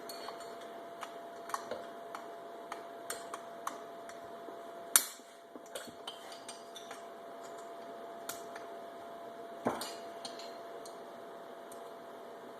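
Metal tools and small chainsaw parts being handled on a workbench: scattered light clicks and clinks, with two louder knocks, about five seconds in and near ten seconds in.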